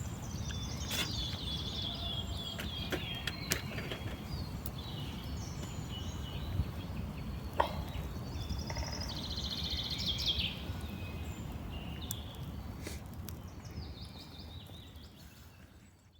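Birds chirping and trilling over a steady low rumble, with a few faint clicks; the sound fades out near the end.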